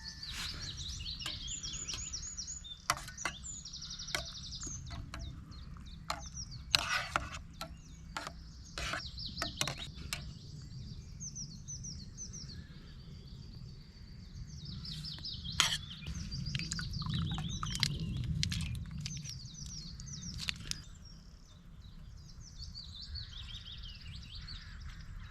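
Several small birds singing and calling in short repeated chirps and trills over a steady low rumble, with a few sharp clicks in between.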